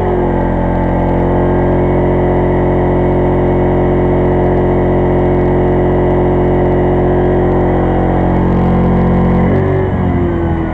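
Pulsar 2300-watt inverter generator's small engine running loud and steady with eco mode off, powering a microwave oven. Its note changes abruptly about nine and a half seconds in.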